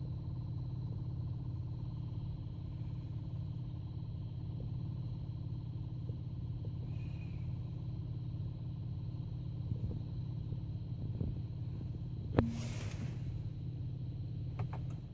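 BMW 120d four-cylinder turbodiesel idling steadily while still cold from a cold start. There is one sharp click about twelve seconds in.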